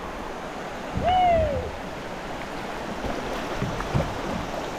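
River water running steadily, with one short hooting call about a second in that rises and falls in pitch.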